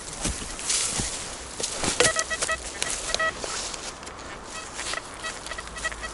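Metal detector's audio signal sounding on a buried target: a pitched, rapidly chopped warble, first about two seconds in and again more faintly near the end. Rustling noise and a few sharp clicks and knocks run under it.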